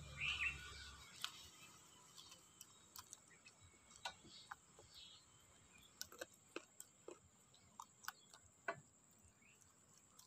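Faint, irregular wet clicks and smacks of a person chewing and sucking meat off a piece of chicken held to the mouth by hand, a few per second. A brief high chirp sounds just after the start.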